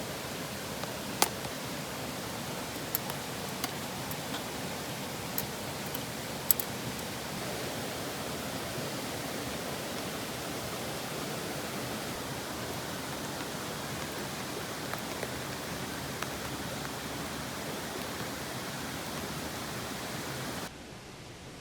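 Campfire crackling, with a few sharp pops in the first seven seconds over a steady rushing hiss. The sound drops away suddenly near the end.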